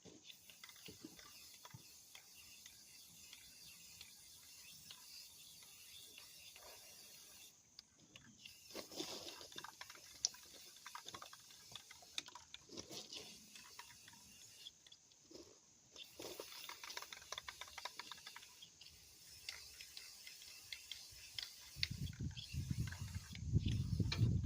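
Aerosol spray-paint can in use: the can clicks and rattles as it is handled, with a faint hiss of spray in short spurts. There is a low rumble near the end.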